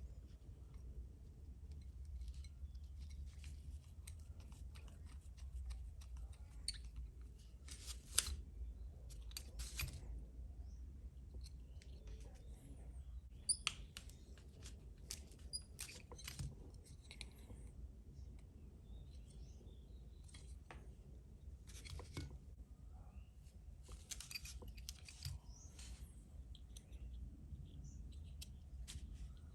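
Faint, scattered small clicks, ticks and snips of tools and small metal and plastic kit parts being handled during model assembly, over a steady low hum.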